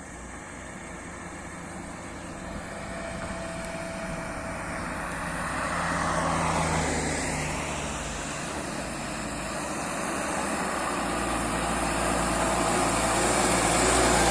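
Road vehicles passing: one goes by about six to seven seconds in, then a heavy truck engine grows steadily louder as it approaches.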